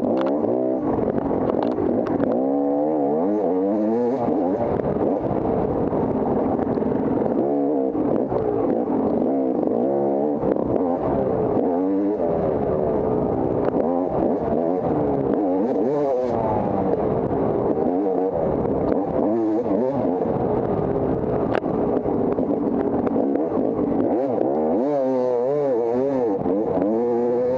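Off-road motorcycle engine revving up and dropping back again and again, a rise and fall every second or two, as the throttle is worked along a hare scramble trail.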